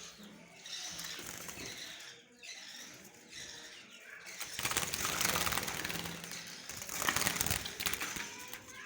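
Budgerigars chirping and chattering, with a louder flurry of fluttering wings from about halfway through.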